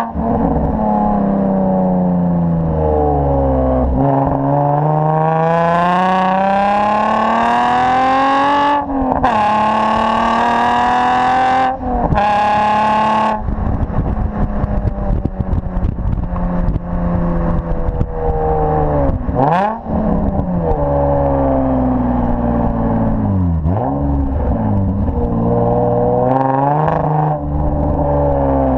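A 2003 Nissan 350Z's V6 through aftermarket headers, test pipe and a resonated X-pipe exhaust, accelerating with the pitch climbing and dropping at upshifts about nine and twelve seconds in. After that it runs at a lower, steadier pitch with a few quick dips and rises in engine speed.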